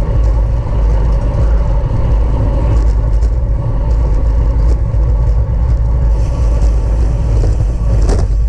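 Wind buffeting a bike-mounted microphone as a bicycle races at speed: a loud, steady low rumble with scattered short clicks.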